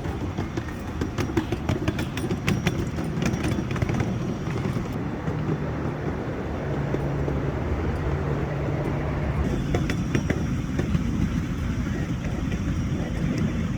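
Miniature railway train running: a steady low rumble with spells of rapid clicking and rattling, in the first few seconds and again about ten seconds in.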